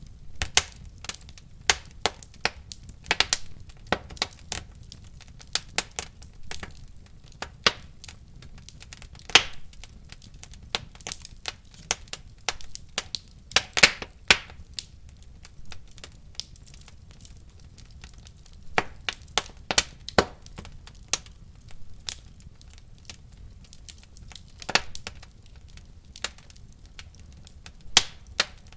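Wood fire crackling in a fireplace: irregular sharp pops and snaps over a steady low rumble of the flames, with the loudest pops about nine and fourteen seconds in.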